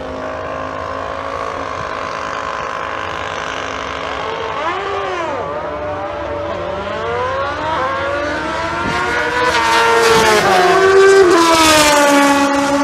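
Drag racing engines from a snowmobile and motorcycle running at once, several pitches held steady, then revs sweeping up and down. The sound grows loudest about nine to twelve seconds in.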